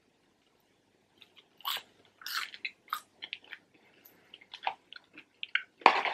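Close-up chewing of McDonald's fries: short, scattered mouth clicks and soft crunches. Near the end comes a louder, sharper rustle as a hand goes into the cardboard fries carton.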